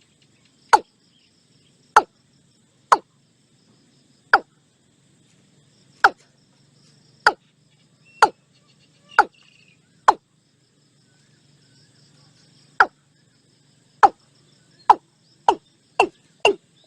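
Watercock calling: a series of short, sharp notes, each falling in pitch, about one a second with a couple of longer pauses, then speeding up to about two a second near the end.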